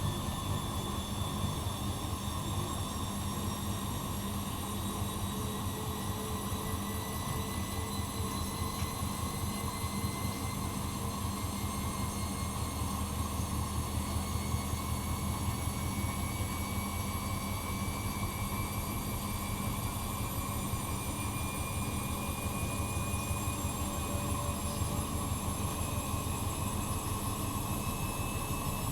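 Bosch Maxx Advantage WFCX2440 front-loading washing machine spinning, a steady rumble with a motor whine that rises slowly in pitch as the drum gathers speed.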